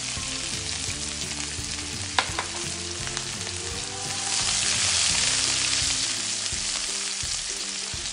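Minced garlic and chopped scallion bulbs sizzling in hot oil in a nonstick frying pan while being stirred with a silicone spatula. A sharp click about two seconds in, and the sizzle swells louder around the middle as the garlic is stirred through the oil.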